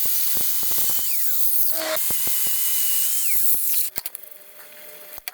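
Power drill fitted with a wire brush, run in two bursts of about a second each, its motor whine steady and then winding down each time, with the scratching of the wire bristles scrubbing grease and dirt off a wheel hub.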